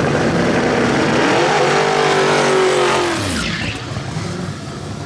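Drag race car at full throttle passing by down the strip. Its engine pitch rises, then drops sharply about three seconds in as the car goes by and fades away.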